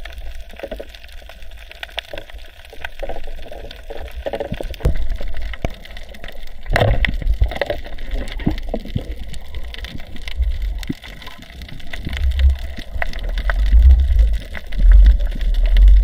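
Water gurgling and sloshing against the microphone, with a low rumble that grows heavier in the second half and scattered short knocks.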